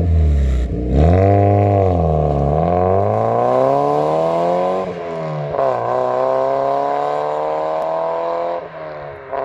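Mazda MX-5 (NB) four-cylinder engine revving up and down, then accelerating hard through the gears as the car drives off, its pitch climbing steadily and dropping sharply at upshifts about five seconds in and near the end.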